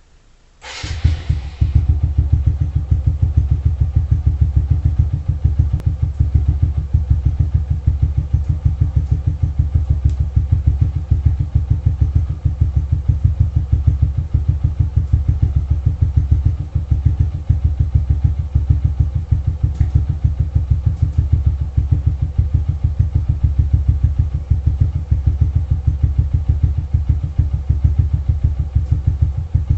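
Suzuki Shogun 125 motorcycle's single-cylinder four-stroke engine, fitted with an aftermarket exhaust, starting about a second in and then idling steadily with an even beat through the exhaust.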